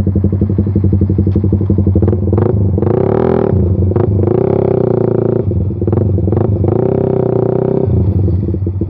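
Suzuki Satria FU injection's single-cylinder engine through a short aftermarket Pro Liner muffler with its dB killer removed, pulling away and accelerating. The revs climb and drop back three times as it shifts up through the gears.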